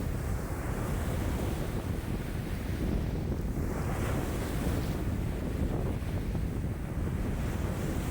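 Choppy lake waves breaking and splashing along the shore in a strong wind of about 5 m/s, with wind buffeting the microphone as a constant low rumble. The wash swells and falls in waves every few seconds.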